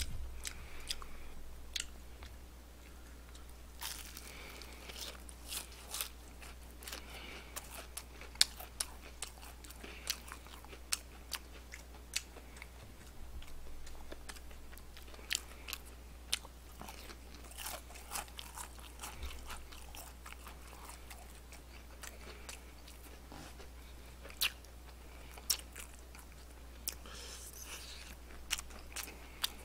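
Crispy fried chicken being bitten and chewed close to the microphone, with many irregular sharp crunches of the batter over a steady low hum.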